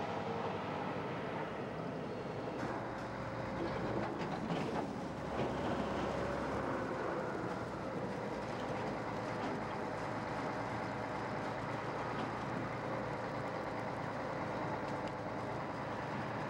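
Heavy vehicle engine running steadily, with a few sharp clanks about three to five seconds in.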